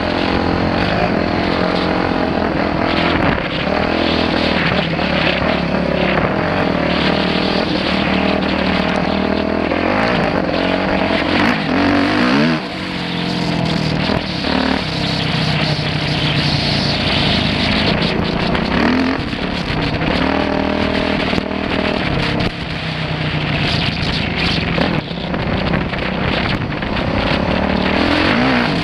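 Dirt bike engine running hard while being ridden, its revs dropping and climbing again several times, over a steady rushing noise.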